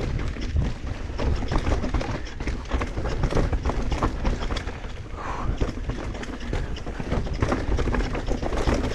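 Mountain bike descending a rough downhill trail: tyres rumbling over dirt, roots and rocks, with a dense, continuous rattle and clatter from the bike and a low rumble on the camera microphone.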